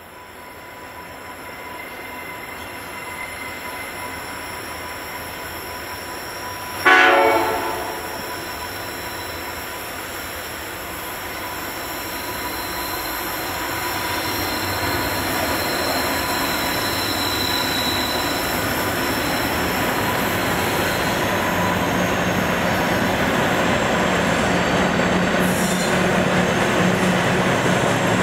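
Diesel freight train, led by two QR National locomotives, approaching with its rumble growing steadily louder. One short horn blast about a quarter of the way in is the loudest sound. Near the end a steady low engine drone comes in as the locomotives draw close.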